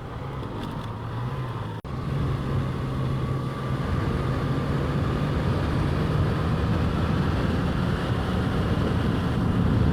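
Motorcycle engine running under way, its note slowly climbing and growing louder as the bike accelerates uphill, with wind rush on the microphone. The sound cuts out for an instant about two seconds in.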